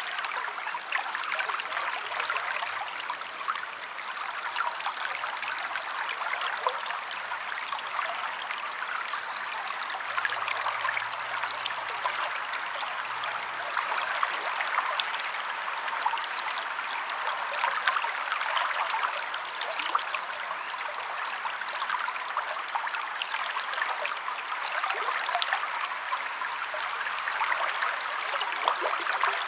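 Stream water flowing and trickling steadily, full of small splashing clicks, with a few faint, brief bird trills now and then.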